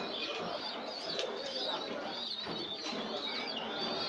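Many caged domestic birds calling at once: dense, overlapping high chirps and twitters, with cooing underneath.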